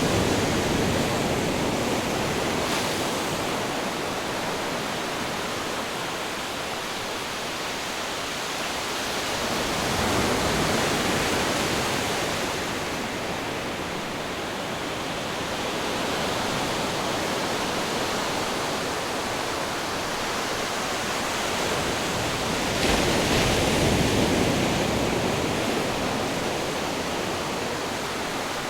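Ocean surf, a steady wash of breaking waves that swells louder three times, near the start, about ten seconds in and about twenty-three seconds in, and eases off between.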